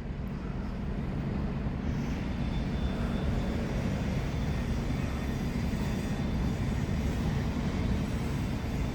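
Steady low rumble of an approaching tram, slowly growing louder.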